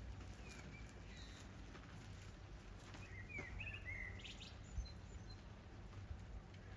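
Faint light rain in a backyard over a low steady rumble, with a bird chirping a short run of calls about three seconds in.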